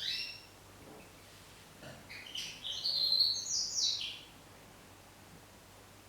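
A small garden songbird gives a short call at the start. About two seconds in it sings a quick phrase of high, changing notes lasting about two seconds.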